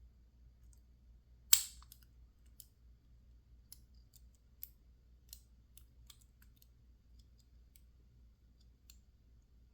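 Lock pick working the pins of a PacLock 410 Pro padlock: faint, scattered metallic ticks, with one sharper click about a second and a half in.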